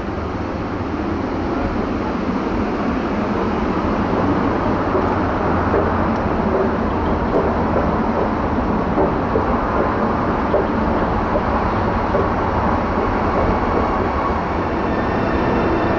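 A train running through a railway station: a steady loud rumble and rush that grows a little louder a few seconds in.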